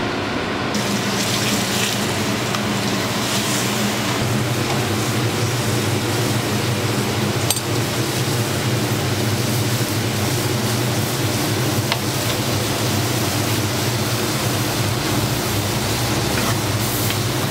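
Steady sizzling of hotteok frying in oil on a flat griddle, over a low steady hum, with a couple of faint ticks of utensils.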